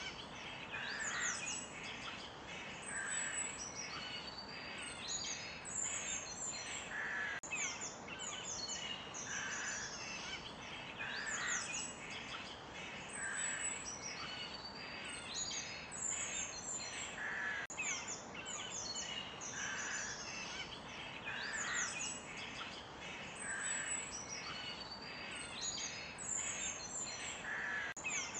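Forest birds singing and chirping, several birds at once, with one call repeating about every second or two, over a steady background hiss.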